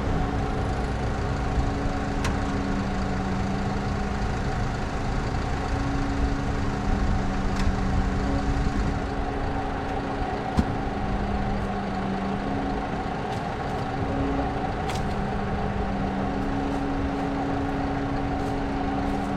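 Cat D6K2 dozer's diesel engine running steadily under load while pushing into a tree, its note shifting slightly back and forth. A few sharp knocks as timber comes down onto the machine's canopy, the loudest about ten seconds in.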